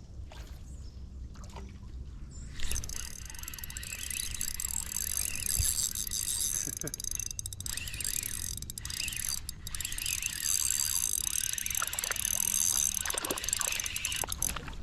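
A knock, then the steady whir of a Daiwa Luvious 2500 spinning reel being cranked as a crappie is reeled in, stopping shortly before the end.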